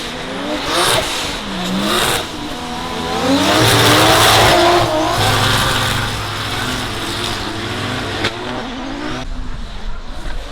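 Drift car's engine revving up and down as it slides by on a wet track, with tyre noise, loudest about four seconds in.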